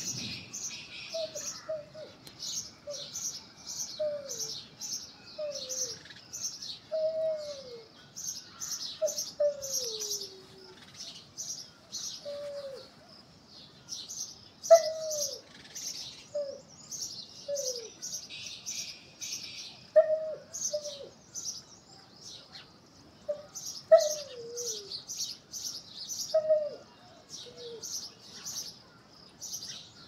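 Birds calling: quick runs of high chirps over and over, with lower, short calls that fall in pitch every second or two.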